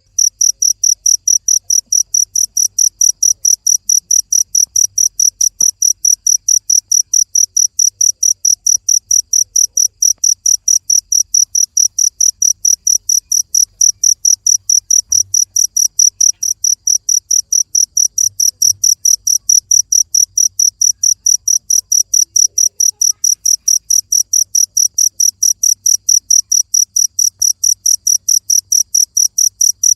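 A cricket chirping in a steady, even rhythm of about four high-pitched chirps a second.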